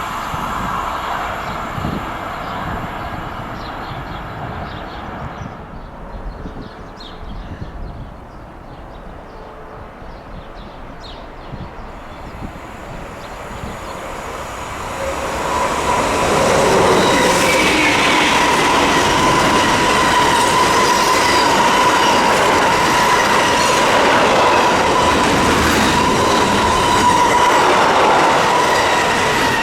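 Trains passing on a railway mainline: one dies away over the first several seconds, then about halfway through another comes up loud and keeps passing to the end, with the clatter of wheels on rail and a steady high tone that sounds like wheel squeal.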